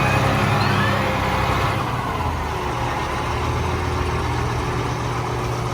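Large farm tractor's diesel engine running under load while pulling dirt scraper pans. In the first two seconds a whine rises and falls, then the engine settles into a steady hum.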